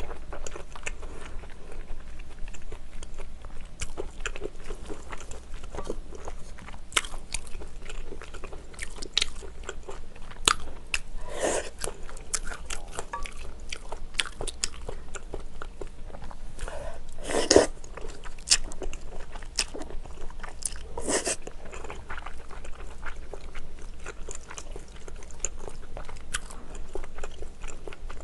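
Close-miked eating: wet chewing with frequent small mouth clicks and smacks, of spicy braised kimchi with pork ribs and chewy Chinese glass noodles. Three louder, longer wet smacks stand out, the loudest about two-thirds of the way through.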